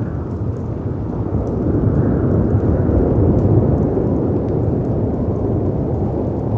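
Layered storm ambience: deep, rumbling noise of wind and surf that swells to a peak in the middle and eases off, with faint crackles and pops of a fireplace over it.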